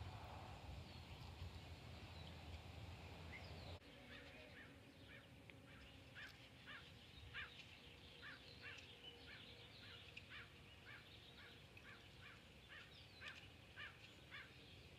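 Near silence, with a faint low rumble that stops about four seconds in. After that a bird calls faintly and repeatedly, about two short chirps a second.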